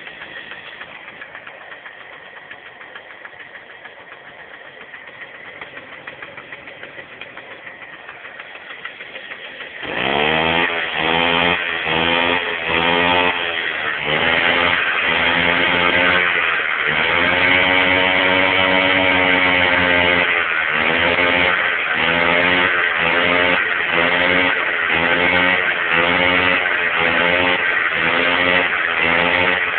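Small moped engine idling. About ten seconds in it gets much louder and is revved in short blips, roughly one a second, with one longer held rev in the middle.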